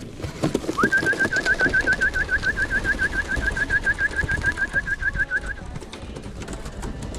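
Racing pigeons cooing and moving about the loft, with a rapid, even trill of short high notes, about six a second, starting about a second in and stopping near six seconds.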